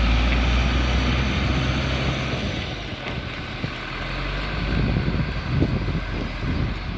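Heavy crane truck's diesel engine running as the truck drives off, loudest at first and easing off, with wind on the microphone.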